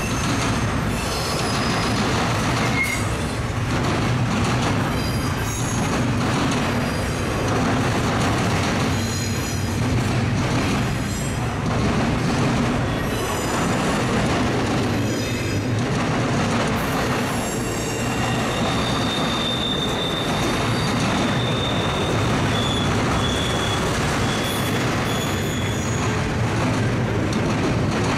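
Intermodal freight train rolling steadily past, its wheels clacking over and over at the rail diamond crossing. A high-pitched wheel squeal sounds now and then and is held longest in the second half.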